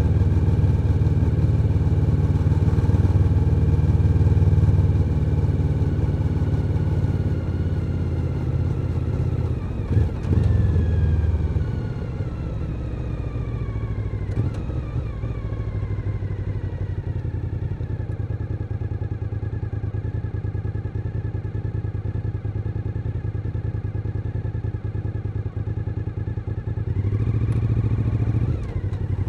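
Suzuki SV1000N's 996 cc V-twin engine on a moving motorcycle: it runs steadily, then its revs fall away over several seconds as the bike slows, settle into a lower steady run, and rise again near the end as it pulls away.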